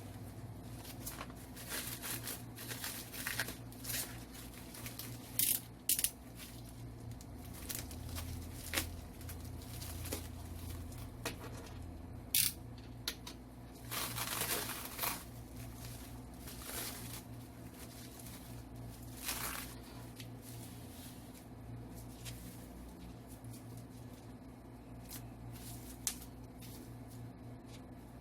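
Toy packaging being opened by hand: crinkling and tearing of wrapping, broken by a few sharp snaps and a longer stretch of rustling near the middle, over a steady low hum.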